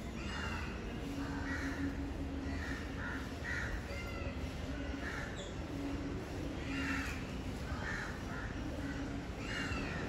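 Harsh bird calls in short bouts, repeating every second or so.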